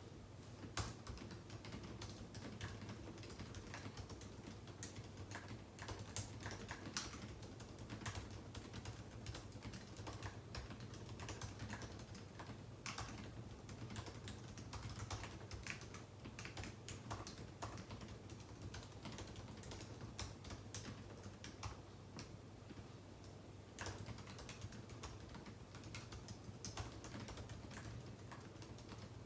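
Typing on a computer keyboard: a continuous, irregular run of key clicks, with a steady low hum underneath.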